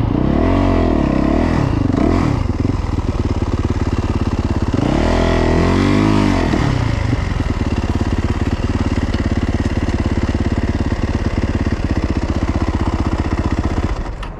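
The 2022 Yamaha YZ450F dirt bike's 450 cc single-cylinder four-stroke engine is being ridden. The revs swing up and down twice, in the first couple of seconds and again a few seconds later, then the engine runs steadier, and its sound falls away near the end.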